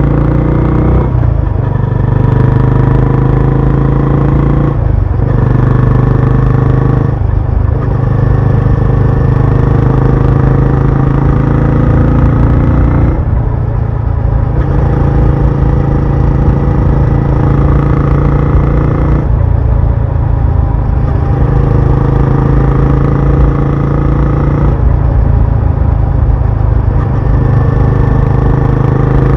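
Benelli Imperiale 400's single-cylinder engine and exhaust running under way. The pitch climbs and breaks off several times as the gears are shifted.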